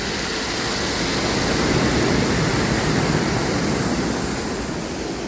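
Sea waves washing onto the shore: a steady rush of surf that swells about two seconds in and then eases off.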